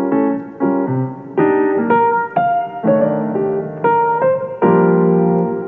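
Background music: a piano playing a run of chords and single notes, each struck and left to fade.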